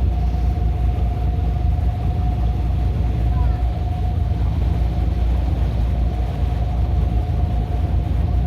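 Pleasure boat's engine running steadily under way: a constant low rumble with a steady whine held over it.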